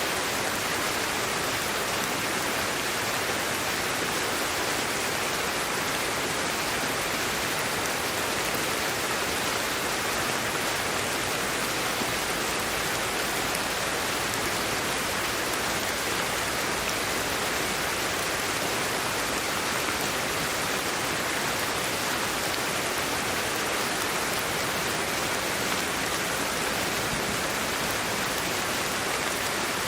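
Steady sleep-aid white noise: an even, unchanging hiss, strongest in the middle and upper range.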